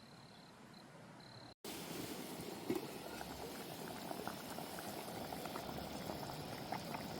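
Pot of samgyetang boiling, a dense bubbling with many small pops. It starts suddenly about a second and a half in, after a quiet stretch with a faint steady high tone.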